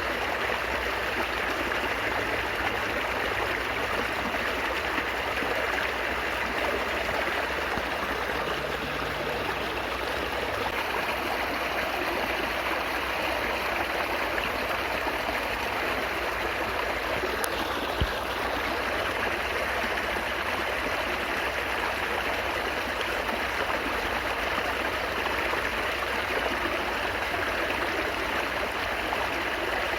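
Babbling stream water, a steady even rush of flowing water with no let-up; a single brief click about eighteen seconds in.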